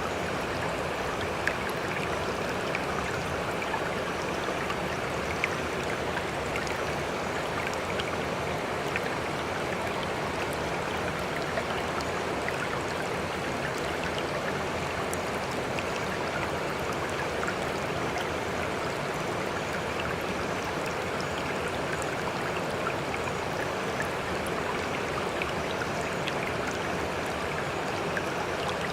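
Steady sea water noise, small waves lapping and splashing, with faint scattered drips and ticks.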